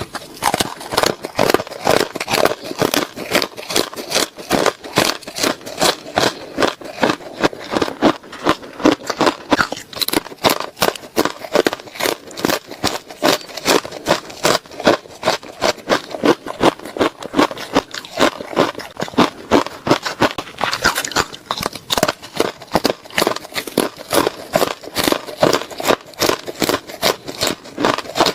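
Ice being chewed close to the microphone: a steady run of sharp, crunchy bites, a few every second, all the way through.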